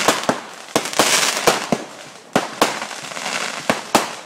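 Fireworks going off: about ten sharp, irregularly spaced bangs over a continuous hiss.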